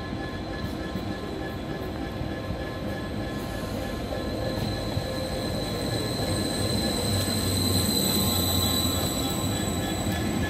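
Stadler FLIRT Class 755 bi-mode multiple unit pulling into a station platform, its running noise growing louder as it draws alongside. A thin high squeal rises through the middle of the approach as it slows, and a low hum swells near the end as the train passes close.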